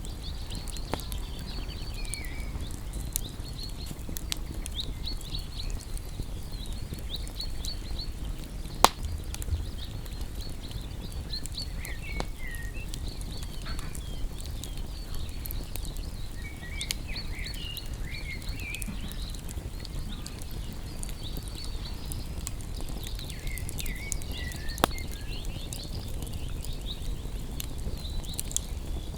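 Wood campfire crackling, with scattered sharp pops over a low steady rumble; the two loudest pops come about 9 and 25 seconds in. Small birds chirp repeatedly in the background.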